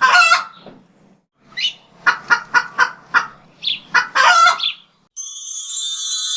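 Chickens clucking in a run of short calls, several in quick succession, with a few rising calls among them. Music cuts in abruptly about five seconds in.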